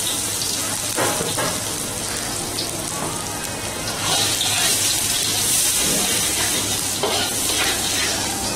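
Chopped garlic and shallots sizzling in hot oil in a wok, stirred with a metal spatula scraping against the pan. The sizzle gets louder about four seconds in.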